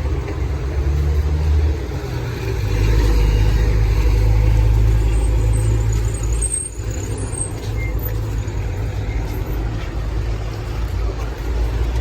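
Motor vehicle on the move, a loud steady low engine and road rumble that swells about three seconds in, dips briefly past the middle, then carries on.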